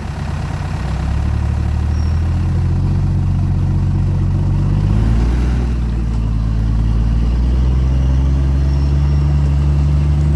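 Off-road 4x4's engine running under load as the vehicle is eased over an obstacle. The revs pick up about a second in, dip and recover around five seconds in, then hold steady.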